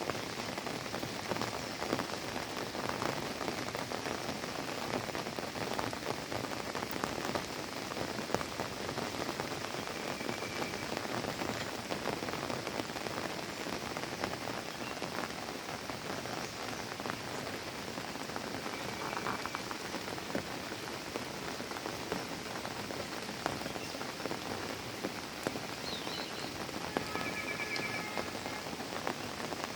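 Steady rain falling, with many separate drops heard hitting a surface among the even hiss of the downpour.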